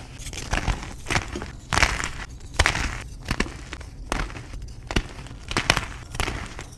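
Reformed gym chalk being crushed and crumbled: a run of dry crunches broken by sharp cracks, a new one every half second or so.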